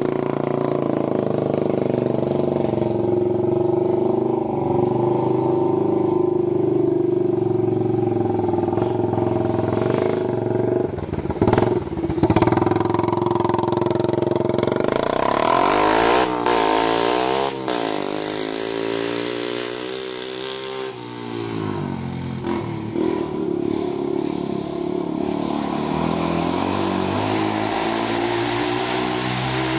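Honda TRX90 ATV's single-cylinder four-stroke engine running open through a bare exhaust tip with the muffler removed. It runs steadily at first, with a couple of sharp knocks about a third of the way in, then its pitch rises and falls several times before settling steady again.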